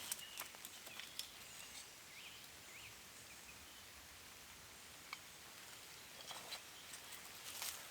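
Quiet outdoor ambience with a few scattered small clicks and knocks, and some faint short chirps about two to three seconds in.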